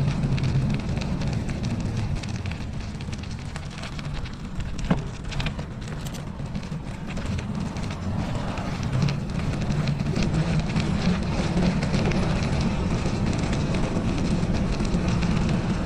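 Wind rumbling on the microphone with a steady crackle of bicycle tyres rolling over snow and ice.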